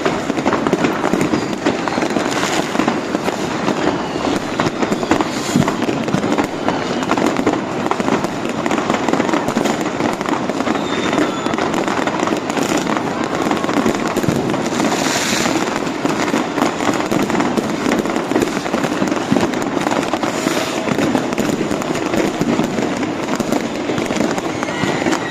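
Many fireworks and firecrackers going off at once in a dense, continuous crackle of bangs, with a few louder bursts standing out.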